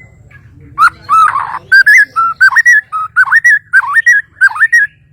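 A Kalimantan murai batu (shama) singing a loud run of clear whistled notes, each a quick dip and rise in pitch, about two a second, starting about a second in.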